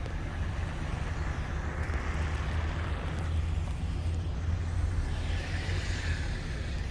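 MV-22 Osprey tiltrotor taking off, its two rotors and engines making a steady low rumble with a rushing hiss that swells twice.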